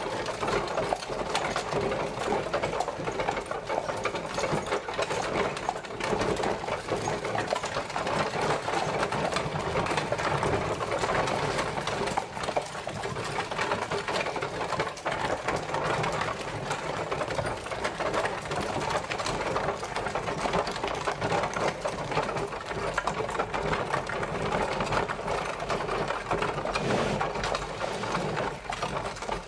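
Horse-drawn carriage traveling: a steady, continuous rattling clatter.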